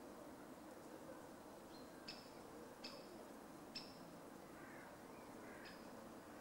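A bird giving a few short, sharp, high call notes, faint and spaced about a second apart, over a quiet woodland background hiss.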